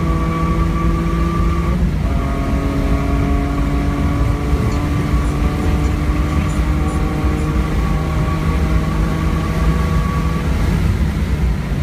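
BMW E46 M3's S54 straight-six at full throttle, heard from inside the cabin: it upshifts about two seconds in, with the pitch dropping, then climbs slowly through top gear along the straight. Near the end the throttle lifts and the engine note fades under wind and tyre noise as the car brakes.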